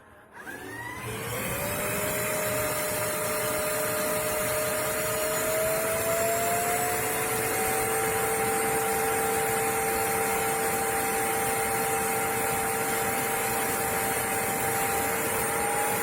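Bissell CrossWave OmniForce cordless wet-dry vacuum switched on: its motor spins up with a rising whine in about a second and a half, then runs steadily, the whine edging up in pitch a couple of times.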